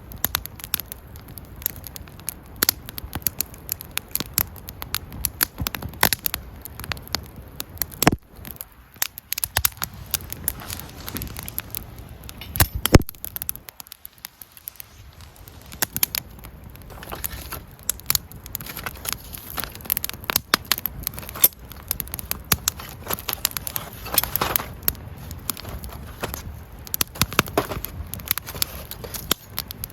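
Wood fire crackling, with irregular sharp pops and snaps over a low hiss; it goes briefly quieter about halfway through.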